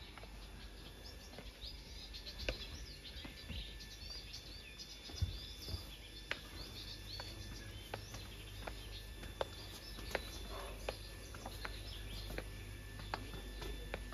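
Small birds chirping and twittering in quick, high bursts over a low steady background rumble, with scattered sharp taps.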